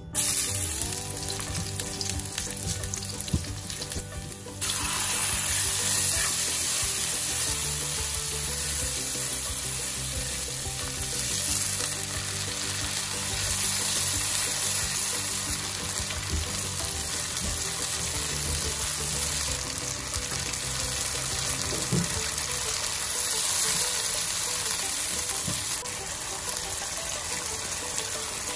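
Pounded aromatics and chilli paste frying in hot oil in a nonstick wok, with a steady sizzle that grows louder about four and a half seconds in.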